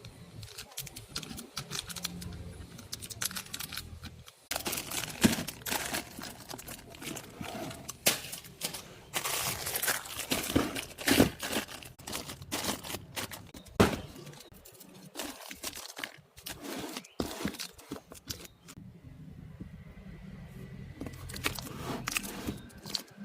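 Plastic packaging crinkling and rustling, with clicks and knocks of items being handled and set down while a refrigerator is being restocked.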